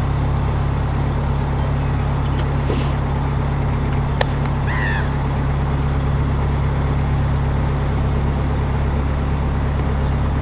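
Narrowboat engine running steadily with a low drone. A bird calls twice, about three and five seconds in, and there is one sharp click around four seconds in.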